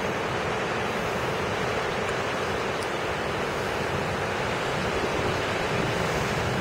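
Strong wind ahead of an approaching thunderstorm, blowing steadily and rushing across the microphone.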